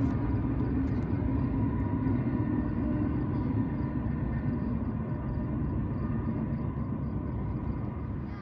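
Low, steady rumble of a freight train out of view, slowly fading.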